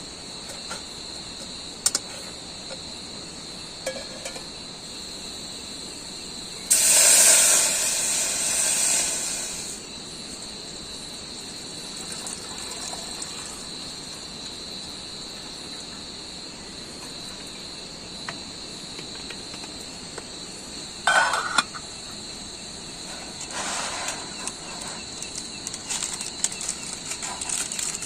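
Insects chirring steadily at a high pitch. About seven seconds in, a loud hiss lasts about three seconds, with a few sharp clicks and clinks and some rustling near the end.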